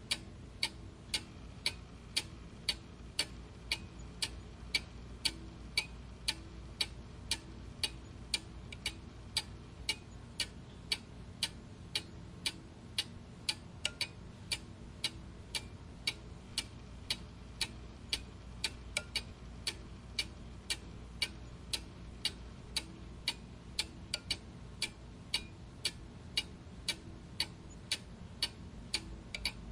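Clock ticking steadily at about two ticks a second, over a faint low hum.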